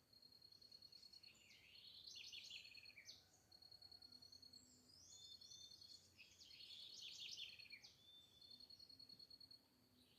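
Birds singing, faint: two long, intricate warbling phrases made of many quick sweeps, the second about halfway through. Between them, short runs of a high, rapid pulsed trill repeat again and again.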